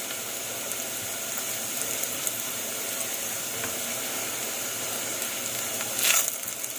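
Sliced onion sizzling in hot oil in a pan, a steady hiss with small crackles. About six seconds in, a brief louder rush of sizzle.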